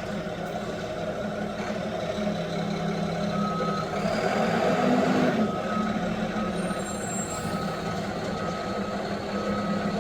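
Front-loader garbage truck backing up: its diesel engine runs steadily while the reverse alarm sounds a short beep about once a second, starting a few seconds in. A louder rush of noise swells near the middle.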